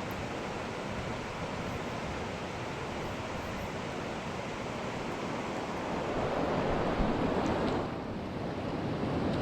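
Steady rush of a fast-flowing river, growing louder for a couple of seconds past the middle.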